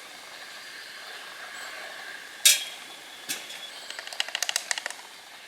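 A sharp loud click, then a second, weaker click, followed by a quick run of about ten small clicks lasting about a second.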